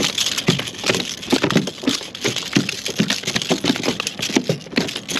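A hooked trout thrashing at the kayak: a rapid, irregular run of loud splashes and knocks that stops near the end.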